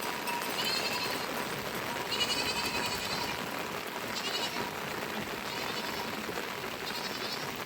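Sheep bleating: about five short, high, wavering calls one after another, over a steady hiss.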